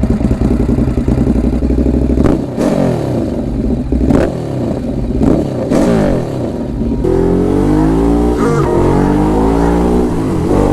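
Ducati Hypermotard SP's twin-cylinder engine through SC-Project exhausts, revving and accelerating. The pitch climbs and drops three times, with a sharp crack at each drop, then holds steadier with a wavering pitch from about seven seconds in.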